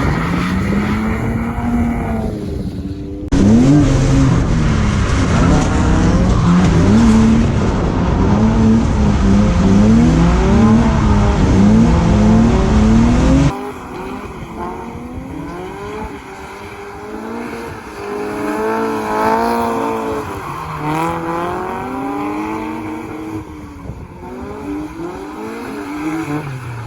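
Drift car's engine revving hard, its pitch rising and falling over and over as the car is thrown sideways. The sound changes abruptly twice: about three seconds in it jumps much louder, and about halfway through it drops back quieter.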